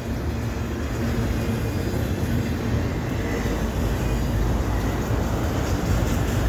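Freight cars of a passing train rolling by on the rails: a steady low rumble of wheels on track.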